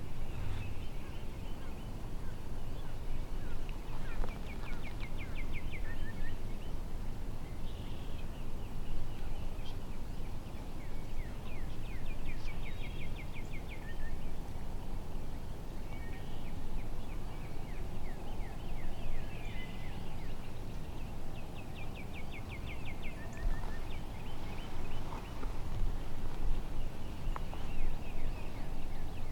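Turkey calling: short rattling runs of quick notes, each about a second long, come roughly every seven or eight seconds, with other birdsong in between.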